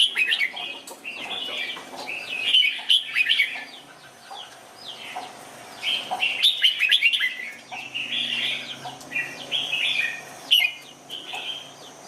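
Red-whiskered bulbul singing short, chirpy warbled phrases about a second long, repeated several times with brief pauses and a quieter spell about four seconds in.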